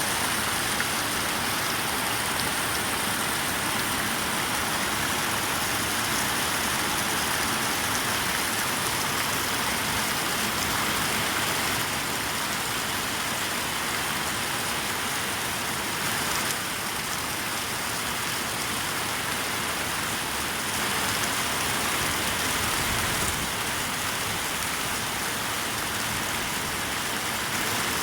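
Heavy rain falling in a steady hiss, with no let-up.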